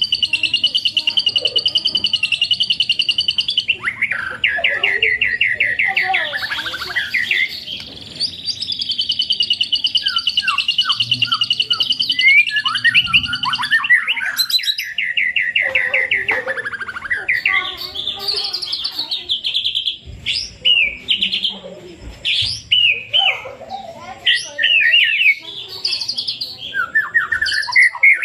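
White-rumped shama (murai batu) singing a long, varied song: sustained high trilling warbles broken by fast rattling runs. Toward the end it changes to short, separate whistled phrases.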